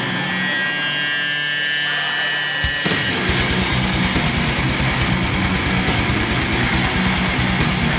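Loud rock-style band music. For about the first three seconds the drums drop out and held notes ring on. Then a single hit, and the full band with a steady drum beat comes back in.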